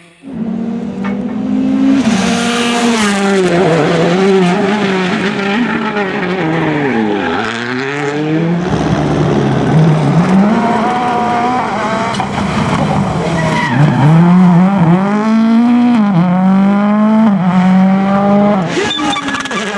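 Rally car engine at full throttle, revving up through the gears and dropping in pitch on hard downshifts for braking, several times over.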